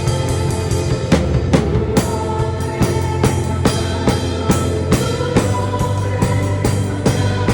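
Acoustic drum kit played in a steady groove, kick, snare and cymbals hitting regularly over the song's music, captured raw on a phone microphone.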